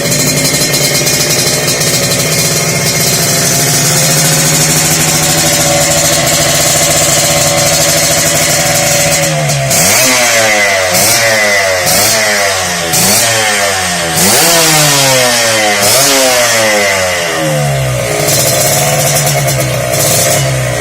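Yamaha RX-King two-stroke single-cylinder motorcycle engine running through an aftermarket stainless Repsol exhaust: idling steadily, then revved in a string of quick throttle blips from about nine seconds in, before settling back to idle near the end.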